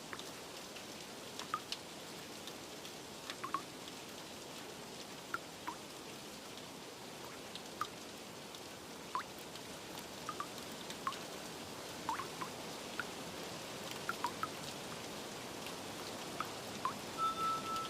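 Steady light rain, with irregular single water drops plinking a few times a second. A soft, sustained musical note comes in near the end.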